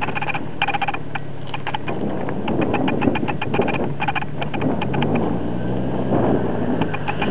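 A car engine running at idle, its pitch rising slightly about five seconds in, with patches of rapid clicking over it.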